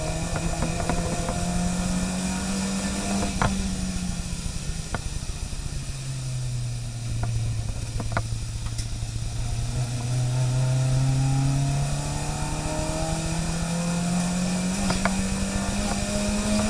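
A car engine running, its pitch dropping about a third of the way in and then rising slowly and steadily, as when a car slows and then gradually picks up speed. Scattered light clicks and knocks are heard alongside.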